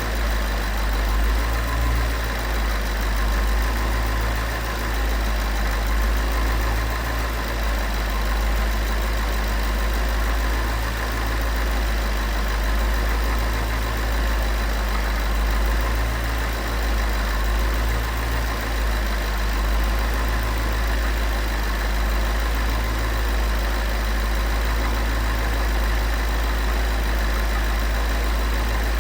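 Porsche 911 flat-six engine idling steadily after a cold start.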